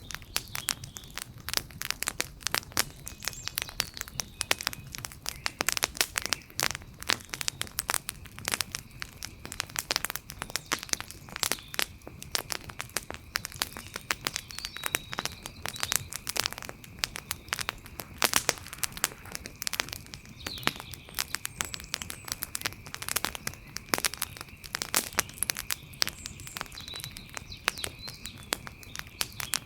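Wood fire crackling, with dense, irregular pops and snaps of burning wood.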